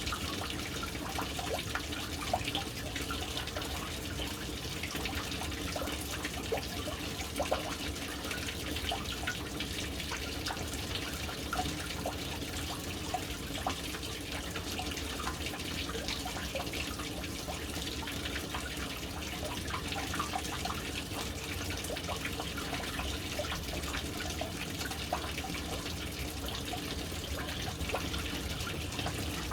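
Water pouring steadily into a household water storage tank through its float valve, splashing onto the water surface with constant small drips and plops.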